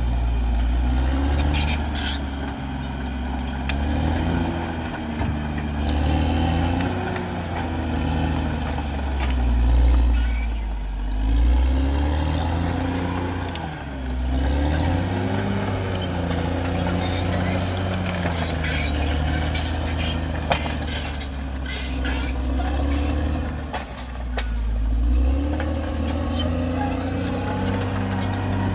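CAT D6R XL bulldozer's diesel engine running with a deep rumble, its pitch rising and falling again and again as the revs change. A few sharp metallic clicks are heard.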